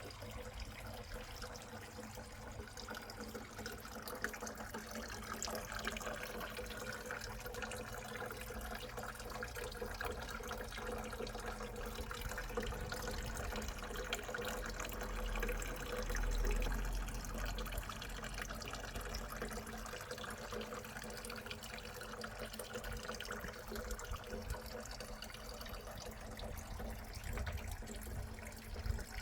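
Steady running water, a continuous trickle and splash, with a brief low rumble about halfway through.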